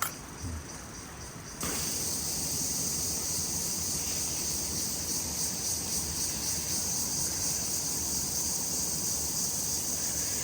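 Insect chorus: a steady, high-pitched shrill that becomes much louder abruptly about one and a half seconds in.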